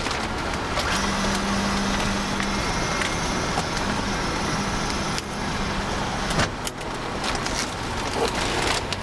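Steady running noise of an aircraft on the ground heard inside an Airbus A330 cockpit, with a steady low hum from about one second in until about six seconds in.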